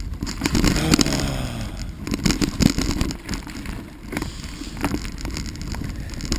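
Bicycle rattling and bumping over a rough, rutted trail, with a steady low rumble and many irregular clicks and knocks. About half a second in there is a brief tone that falls in pitch.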